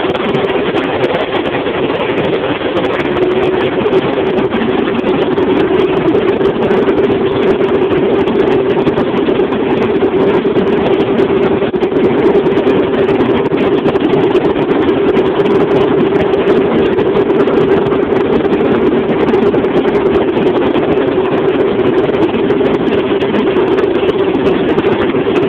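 Opel Corsa 1.4 four-cylinder petrol engine running steadily on its first start after a complete rebuild, with a constant hum.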